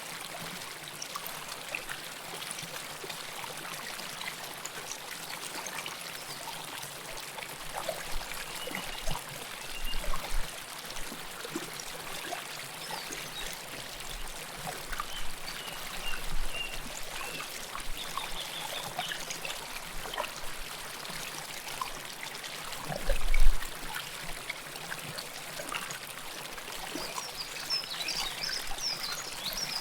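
River water flowing and trickling close up, a steady rush with small gurgles and splashes throughout. It swells louder briefly about ten seconds in and again near twenty-three seconds.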